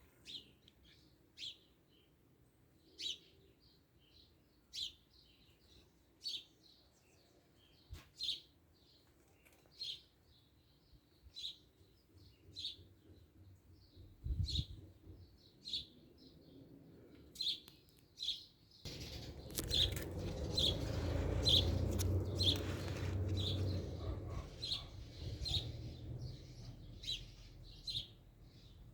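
A bird repeating a single short, high chirp about every second and a half, coming faster in the second half. About two-thirds of the way through, a louder rushing noise swells for several seconds and then eases off.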